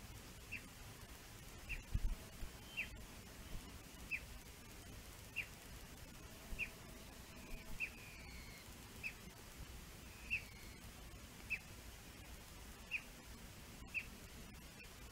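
A bird calling over and over with a short, high, falling whistled note about once every second and a bit, with a couple of longer falling whistles in the middle. There is one low thump about two seconds in.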